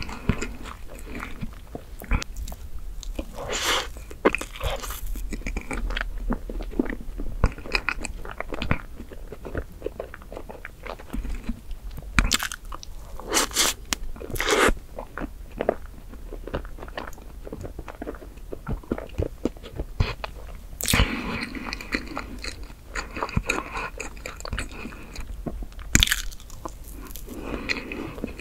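Close-miked chewing and mouth sounds of eating chocolate whipped-cream cake, with many short sharp clicks scattered irregularly throughout.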